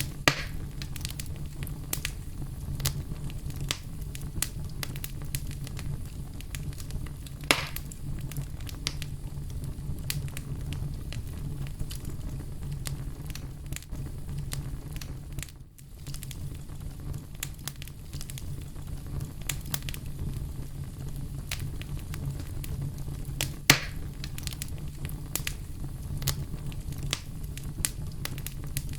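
Campfire burning: wood crackling and popping over a steady low rumble of the flames. A few louder pops stand out: one right at the start, one about a quarter of the way in, and one about three-quarters through. The sound briefly dips about halfway.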